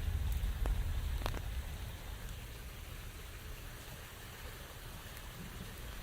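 Steady rain falling, with a few sharp, heavier drops striking close by and a low rumble in the first second and a half.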